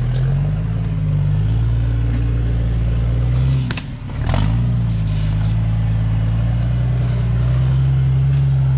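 Off-road vehicle engine running steadily, dipping briefly about four seconds in with a sharp click, then picking back up.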